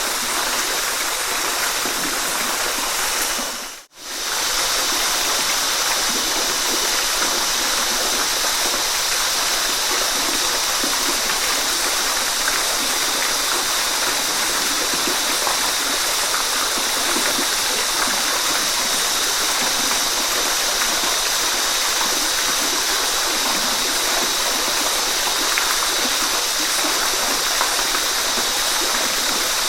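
Waterfall rushing in a steady, even roar of falling water. About four seconds in it briefly fades out to near silence and straight back in.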